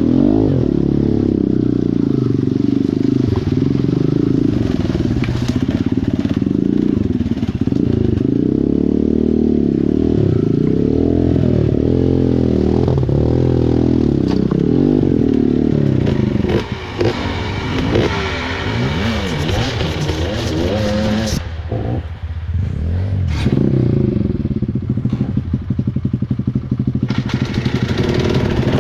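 Small dirt bike engine running and revving up and down unevenly, as when picking a way over rocks, with a rougher stretch of higher revs and a couple of short dips about two-thirds of the way through.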